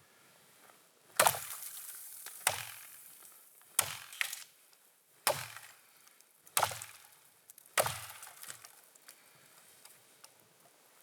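Axe chopping wood: six hard strikes at a steady pace, about one every 1.3 seconds, each ringing briefly.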